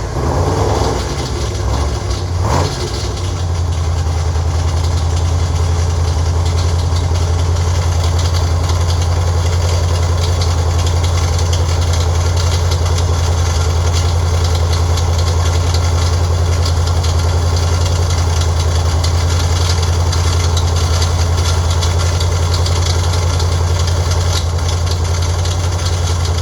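Freshly built Ford 302 V8 running on an engine run stand just after start-up: its speed varies unevenly for the first few seconds, then it settles into a steady idle.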